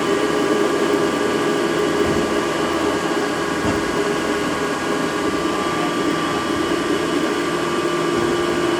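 Haas VF3 CNC vertical machining center running the milling part of a programmed cycle: a steady mechanical whine with several held tones over a constant hum.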